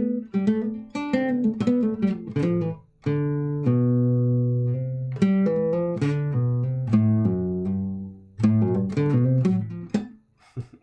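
Clean guitar played solo: a phrase of picked single notes and ringing chords with a major-seventh, Lydian sound, some notes held and left to ring. The playing breaks off about ten seconds in.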